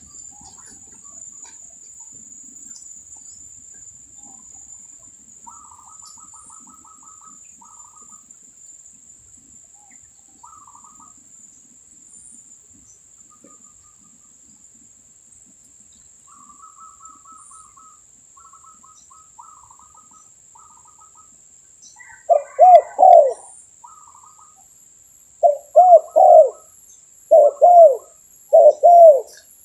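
Spotted dove cooing: four loud phrases of two or three arching coo notes in the last third. Before them there is only faint twittering from small birds, with a steady thin high-pitched tone underneath.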